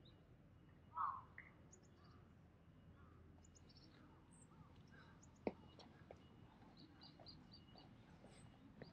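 Small birds chirping in short, high calls over faint outdoor background noise, with one louder, lower call about a second in and a single sharp click about halfway through.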